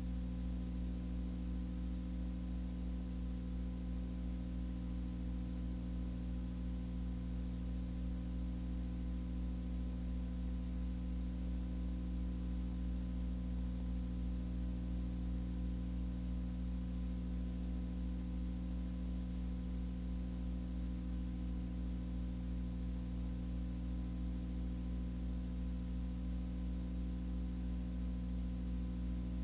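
Steady low electrical hum with a constant hiss over it, unchanging throughout, with no other sounds.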